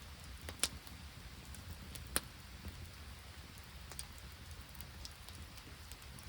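Open wood campfire crackling, with two sharp pops about a second and a half apart, over a light patter of rain.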